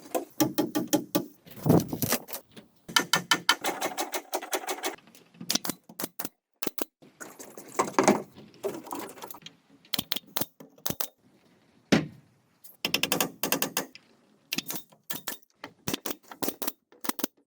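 Bursts of rapid mechanical clicking and knocking, several runs of quick clicks with short pauses between them.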